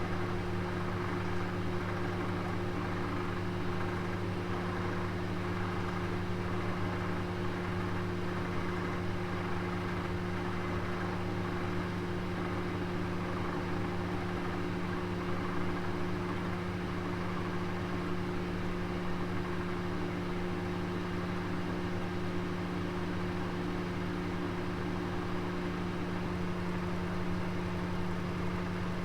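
Kitchen oven running with a roast inside: a steady, unchanging hum with a whirring fan-like noise.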